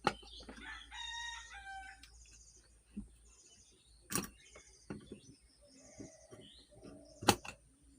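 A few sharp metal clicks and knocks as ceiling fan parts are fitted together, the loudest near the end. A rooster crows in the background about a second in.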